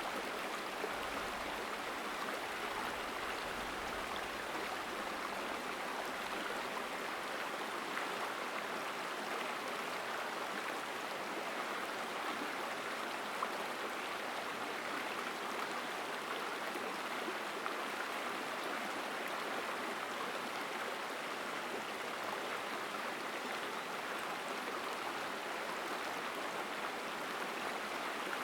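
Mountain stream rushing over rocks, a strong steady water sound.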